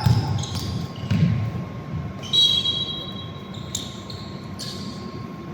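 Basketball game sounds: the ball thudding on the court floor, with short high squeaks, like sneakers on hardwood, about two and a half seconds in.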